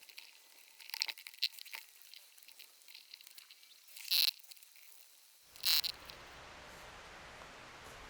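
Scattered small crackles and clicks, then about five and a half seconds in a sudden switch to a steady rush of flowing water.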